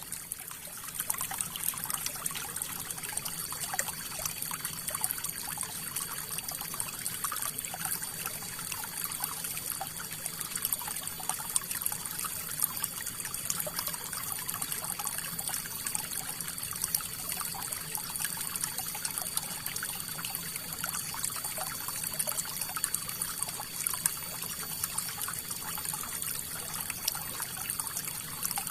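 River water flowing, a steady trickle with a constant patter of small splashes.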